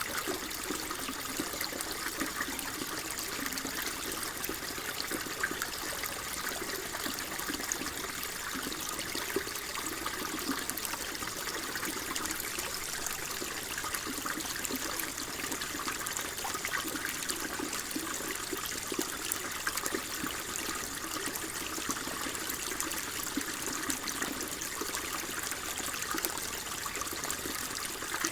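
Water flowing steadily in a gentle, trickling stream, an even rushing with small splashes.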